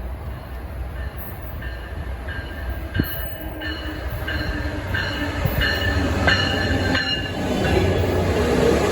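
Passenger train rolling in on the rails with a steady low rumble and short, repeated high-pitched wheel squeals, growing louder toward the end.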